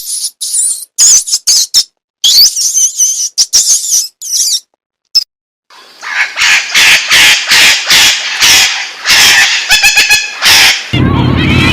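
Birds calling: thin, very high chirps and twitters first. From about halfway, a run of loud, harsh squawks follows, ending in a quick rattling call.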